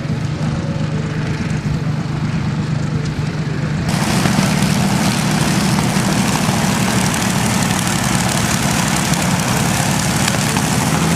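Piston-engined propeller aircraft engine running with a steady low drone. About four seconds in, a loud rushing hiss joins it and holds to the end.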